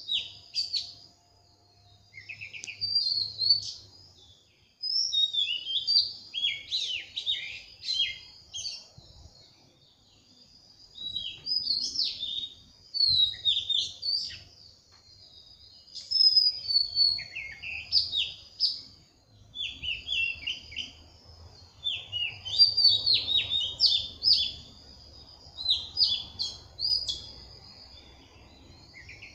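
Birds singing in repeated bouts of quick, varied chirps and twittering phrases, with short pauses between bouts.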